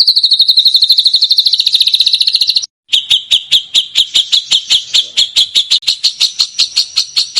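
Songbird song: a very fast trill of repeated notes on nearly one pitch, dropping slightly, that breaks off nearly three seconds in. It is followed by a slower series of sharp chips, about five a second.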